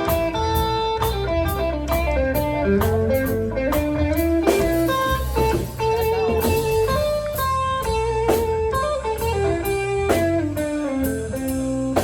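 Live band playing an instrumental break: a lead guitar plays a melody of held and sliding notes over bass and drums.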